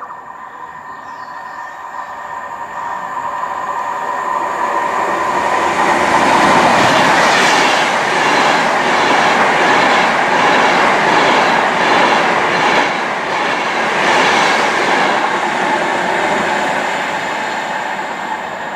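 Avanti West Coast Class 390 Pendolino electric train passing through the station without stopping. It builds as it approaches, is loudest for about ten seconds as the carriages go by with a regular beat of wheels on the track, then fades as it draws away.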